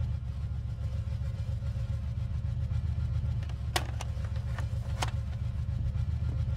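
Vehicle engine idling with a steady low hum, heard inside the cab. A little past halfway come several sharp clicks as a button on the Toyota cassette radio is pressed and the tape mechanism engages to play.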